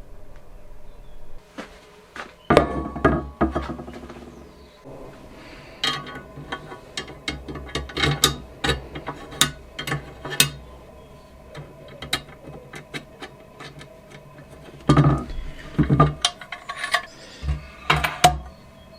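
Hand work on car heater parts at a workbench: a run of sharp clicks, taps and knocks from tools and small metal parts being handled. It is busiest about two and a half seconds in and again from about fifteen seconds in.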